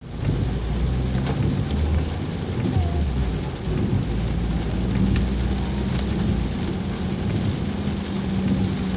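Heavy rain falling, a steady hiss with a low rumble underneath and a few sharp drip ticks.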